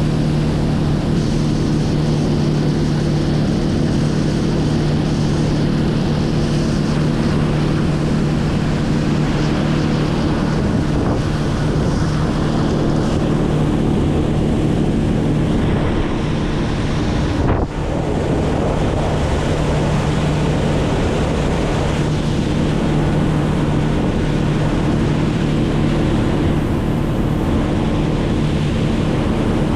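An engine running steadily at a constant speed, with wind rushing over the microphone. There is a brief dropout about two-thirds of the way through.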